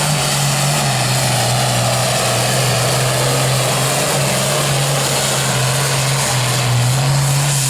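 Engine of a pulling truck or tractor running loud and steady, a constant low drone with a slight waver and no revving up or down.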